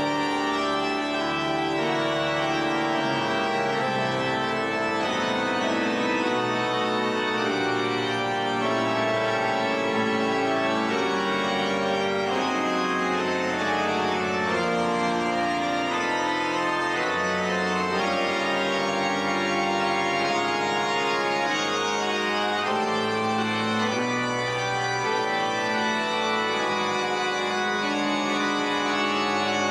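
Pipe organ of St. Peter's Basilica playing sustained chords, several voices moving over held bass notes that change every second or two, at a steady level.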